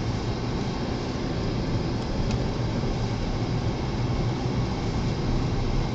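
Steady car-cabin noise while driving slowly through a blizzard: engine and tyre rumble mixed with the rush of strong wind around the car.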